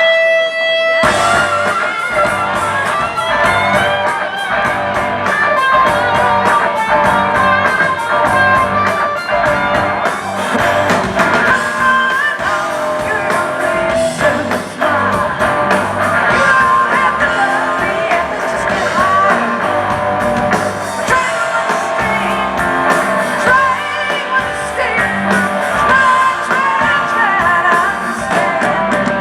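A live rock band playing, with electric guitar, drums and a singer.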